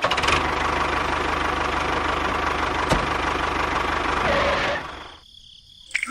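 A small engine running steadily with a fast, even throb, with one sharp click about three seconds in; it fades out nearly five seconds in.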